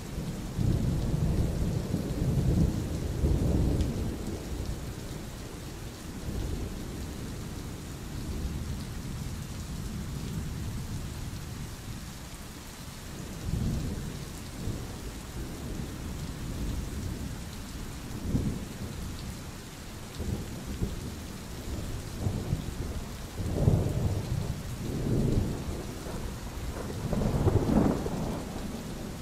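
Steady rain falling, with rolling thunder rumbling low several times: strongest in the first few seconds and again near the end, with fainter rumbles in between.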